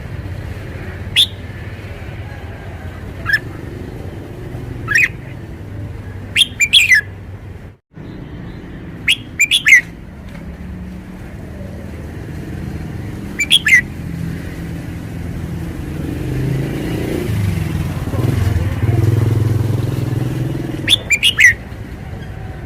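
Red-whiskered bulbul giving short, sharp calls every few seconds, some in quick pairs or triplets, over a steady low rumble that swells near the end.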